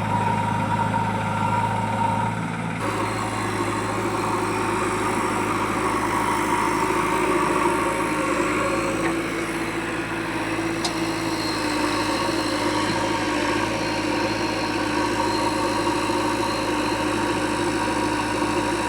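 Diesel engine of heavy farm or earth-moving machinery running steadily at low revs, its tone changing abruptly about three seconds in.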